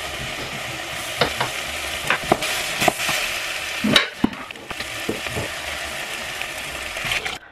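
Food sizzling in a large steaming pot on the stove: a steady hiss, with scattered clicks and knocks of kitchen work and a louder knock about four seconds in as a cupboard is opened. The sound cuts off suddenly just before the end.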